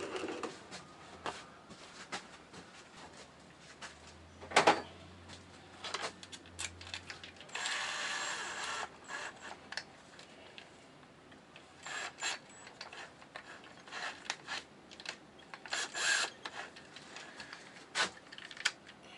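Hand work on RV interior fittings: scattered clicks and knocks, with a scraping rub lasting about a second and a half about eight seconds in.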